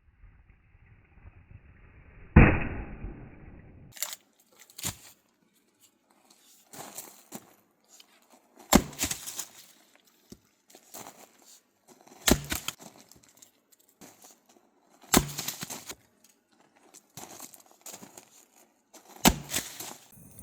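An axe splitting firewood: five loud, sharp chopping strikes every three to four seconds, with smaller knocks and clatter of split wood between them.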